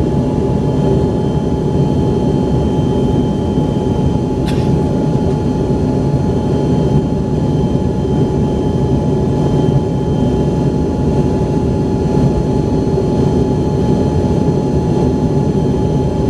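Cabin noise of an Embraer ERJ-135LR in flight: the steady drone of its two rear-mounted Rolls-Royce AE 3007 turbofans, with steady whining tones above it. One brief click about four and a half seconds in.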